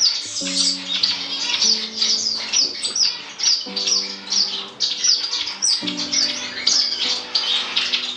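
A roomful of small cage finches chirping and calling busily, with many short, quick high chirps overlapping. Soft background music with held chords runs underneath, the chords changing every second or two.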